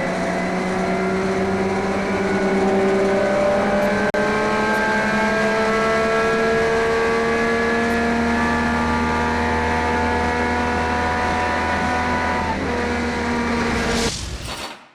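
1971 HQ Holden race car's engine pulling under load, its pitch rising slowly and evenly for over twelve seconds with a brief hitch near the end of that pull. The sound cuts off abruptly about fourteen seconds in.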